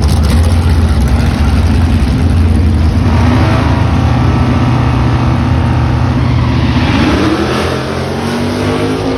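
1956 Chevy Bel Air race car's engine running loud and rough at a low, steady pitch, then rising in pitch about seven seconds in.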